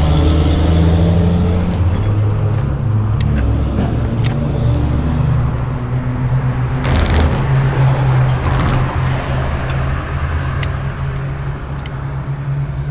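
A motor vehicle's engine running close by on the road, a steady low hum that shifts in pitch, with a brief hiss about seven seconds in.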